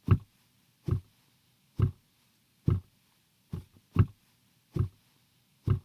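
A series of dull, low thumps at an even pace of a little more than one a second, with a weaker extra thump slipped in just past halfway.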